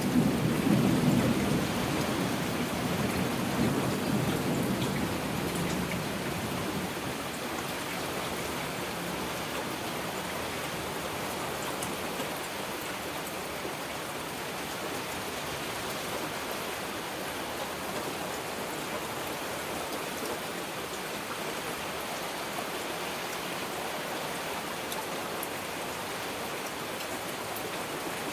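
Heavy rain falling steadily, with a low thunder rumble at the start that dies away over the first several seconds.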